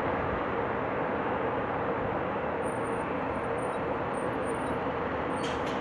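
Steady jet noise from a Bombardier CRJ200 regional jet's two rear-mounted GE CF34 turbofans on the runway, mixed with wind buffeting the microphone. A short click comes near the end.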